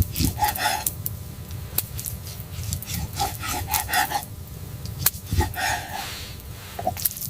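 A run of uneven rasping, scraping strokes, in two clusters, on something hard.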